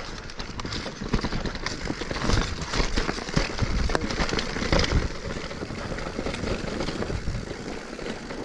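Specialized Stumpjumper Evo Alloy mountain bike riding down loose, dusty singletrack: tyres crunching over dirt, roots and rocks, with a steady clatter and frequent sharp knocks from the bike.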